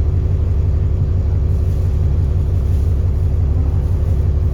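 Alexander Dennis Enviro400 double-decker bus's diesel engine running at a steady speed, a deep constant rumble with no revving up or down.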